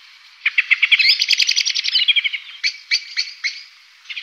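A songbird singing: a fast run of high chirping notes lasting about two seconds, followed by a few separate notes, with a new run starting near the end.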